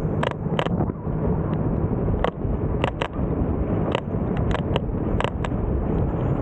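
Riding noise from a bike: a steady wind-and-road rumble with frequent, irregular sharp clicks.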